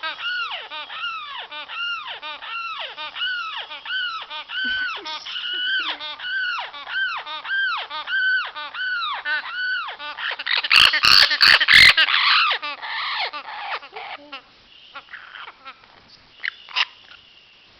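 Amazon parrot repeating the same short, arching call about twice a second. About eleven seconds in it breaks into a louder harsh burst with a few sharp clicks, then trails off into quieter, scattered calls. The owner sees this calling only in spring.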